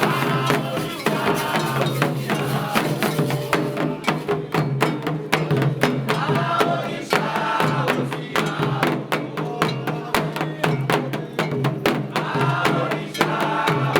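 Candomblé ritual music: drums and a struck bell keep a fast, steady rhythm under voices singing together.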